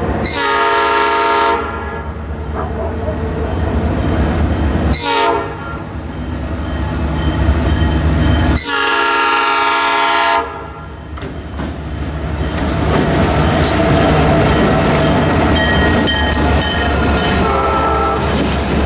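Diesel freight locomotive's air horn sounding three chords, long, short, long, then the train rolling past with its wheels clacking over the rail joints.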